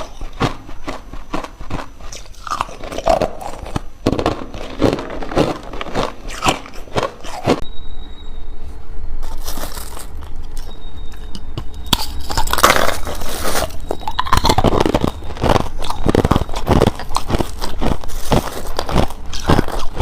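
Hard, clear ice cubes bitten and chewed up close: a run of sharp crunches, a pause of a few seconds about eight seconds in, then denser, louder crunching.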